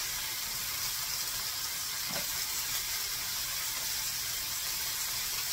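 Ground beef patties and thin-sliced onions frying in a skillet, a steady hissing sizzle.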